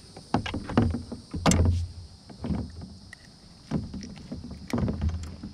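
Irregular knocks and heavy thumps on a small fishing boat's hull, about six over a few seconds, the loudest about a second and a half in.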